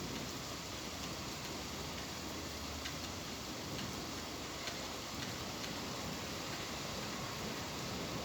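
Steady rain, an even hiss, with a few scattered drops ticking sharply on a hard surface.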